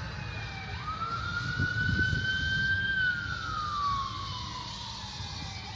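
Emergency vehicle siren on a slow wail. It rises about a second in, holds high, then falls gradually toward the end, over a low rumble.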